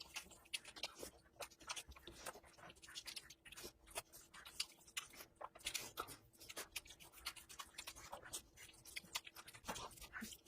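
Close-miked eating sounds of a person eating curry and rice: wet chewing and lip-smacking, a quiet, irregular run of small clicks.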